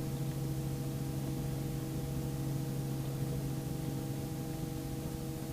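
Robinson R44 helicopter engine and rotors running steadily in a hover: a constant hum with several fixed tones over a light hiss.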